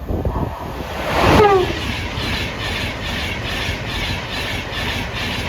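LNER InterCity 225 high-speed train, Class 91 locomotive 91107, passing at speed. About a second in there is a whine that falls in pitch as the train goes by, and this is the loudest moment. Then comes a steady rush of the coaches with a regular beat of about three a second.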